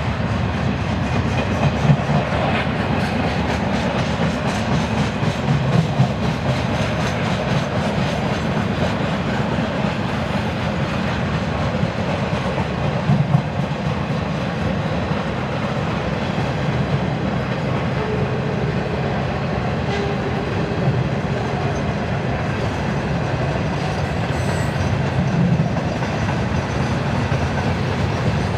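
Freight cars rolling past: a steady rumble of steel wheels on rail with a clickety-clack over the rail joints. A few sharper knocks stand out, the loudest about 2, 6 and 13 seconds in.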